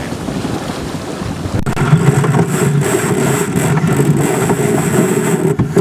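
Wind buffeting the microphone on a heeling sailboat, with water noise from the hull. A sharp click comes about a second and a half in, and from about two seconds a steady hum joins the wind.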